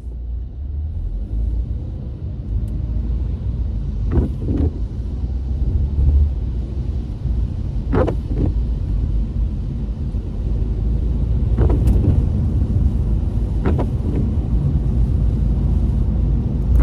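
Car cabin noise while driving: a steady low rumble of engine and tyres, with a few brief sounds about 4, 8, 12 and 14 seconds in.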